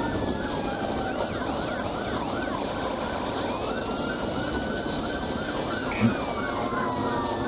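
Police car sirens during a pursuit: one on a fast yelp, rising and falling about three times a second, over a slower falling wail, with steady road and engine noise beneath. A brief thump about six seconds in.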